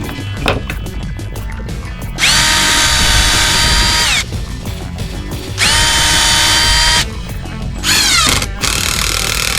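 Power drill running in three bursts into pallet wood: a steady motor whine of about two seconds that winds up and down, a second of about a second and a half, and a short burst near the end that falls in pitch as it spins down.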